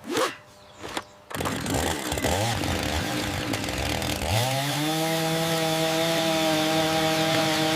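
A few short knocks, then a cartoon chainsaw motor starts up. A few seconds in, its pitch rises to a steady high rev and holds there.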